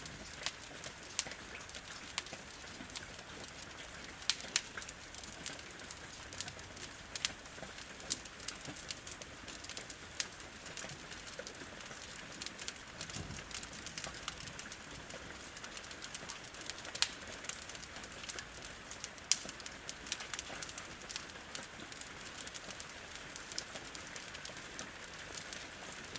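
Steady hiss of rain with frequent, irregular sharp crackles and pops from a wood fire burning in a fireplace.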